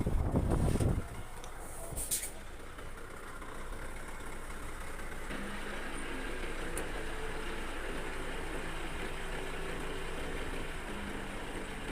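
Heavy diesel engine running steadily, after a loud low rumble in the first second and a short hiss about two seconds in.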